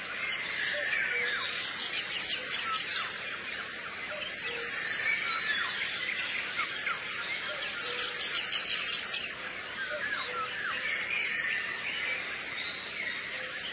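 Birds chirping, with a fast high trill of rapid notes coming back about every six seconds.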